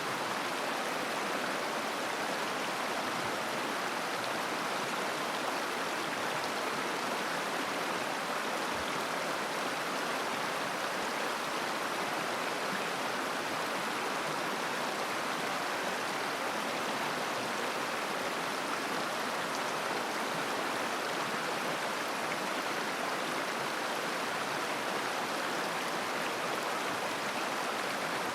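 Shallow mountain river babbling: a steady, even rush of flowing water with no breaks.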